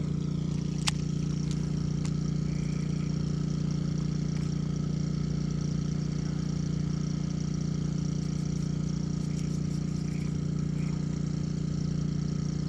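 A steady low mechanical hum, like a motor or engine running, with one sharp click about a second in.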